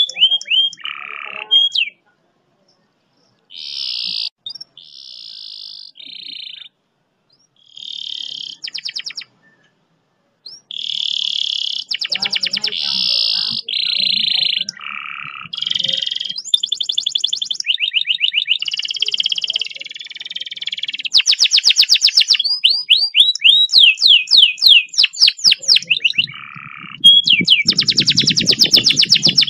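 Canary song: long, fast rolling trills and rapid runs of repeated descending notes, with short pauses in the first third and then continuous, dense song.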